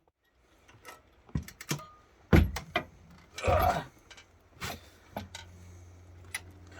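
Scattered clinks and knocks of things being handled, with a louder scraping burst about three and a half seconds in and a steady low hum coming in about five seconds in.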